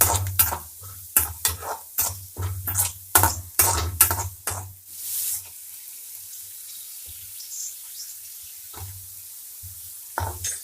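A spatula stirring and scraping chopped onions sautéing in hot oil in a kadai. A quick run of strokes fills the first five seconds, then a pause with only the frying sizzle, then the stirring starts again near the end.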